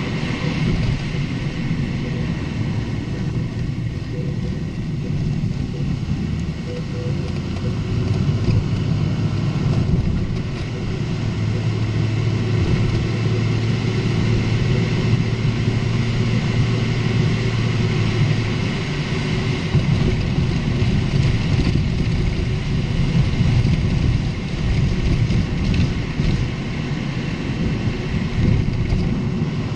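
Steady road and drivetrain rumble from a moving Lexus IS250, with a few knocks in the second half. The knocks are the kind of clattering suspension noise over bumps that the owner suspects comes from the stabiliser links.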